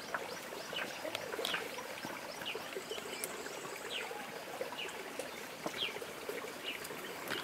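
Birds chirping outdoors: short, high, falling notes repeating about twice a second over a steady hiss.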